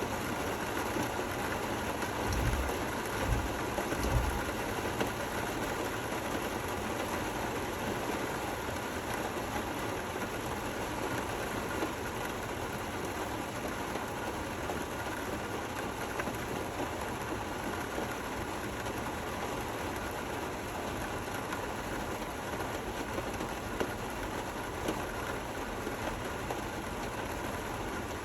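Steady, even rain falling, with a few low thuds about two to four seconds in.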